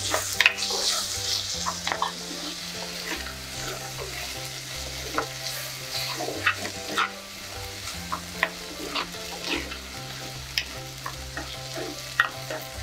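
Chopped tomato and shallots frying in hot groundnut oil in a clay pot. The sizzle is loudest in the first couple of seconds, just as the tomato goes in. A spoon stirs and scrapes through the mixture, clicking against the earthenware pot every second or so.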